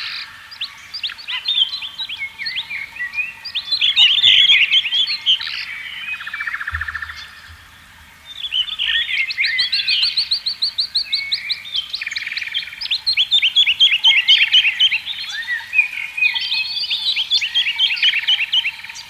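Several songbirds singing and calling at once, a dense chorus of chirps and rapid trills that dips briefly about halfway through.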